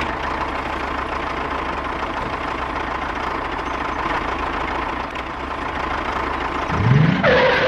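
A small motor running steadily with an even mechanical drone. About seven seconds in there is a short rising sweep, and then the sound cuts off.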